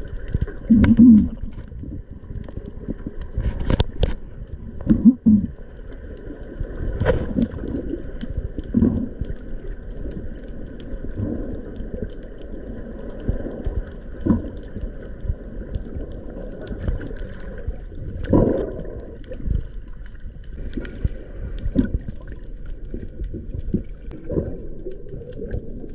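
Underwater sound picked up through a diving camera's housing: a constant low rumble with irregular gurgling swells of water and bubbles, the loudest about a second in, about five seconds in and near two-thirds of the way through.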